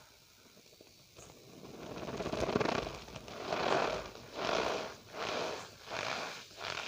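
Cornstarch powder squeezed and pressed by hand, giving a squeaky crunch. It is quiet at first, then comes one long squeeze, then about five shorter squeezes a little under a second apart.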